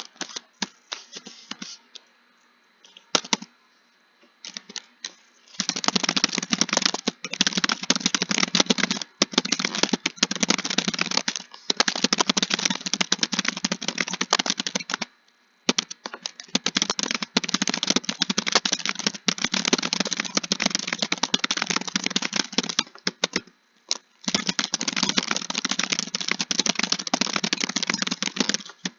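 Computer keyboard typing: a few scattered keystrokes, then long runs of fast, continuous key clicks with brief pauses between passages.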